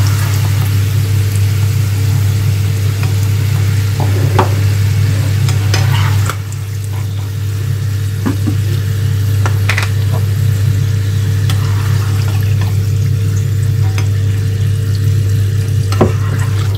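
Potato fries sizzling in a pan of hot oil, with a metal spoon clinking against the pan a few times as fries are lifted out. The sizzle drops off about six seconds in, over a steady low hum.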